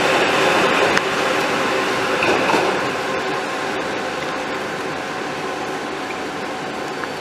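HEMU-430X electric high-speed train pulling away from a station platform: running noise with a steady hum of several tones, slowly fading as it draws off.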